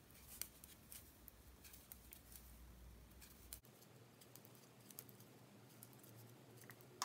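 Faint, irregular light clicks of two knitting needles and yarn as stitches are knitted in garter stitch, with one sharper click near the end.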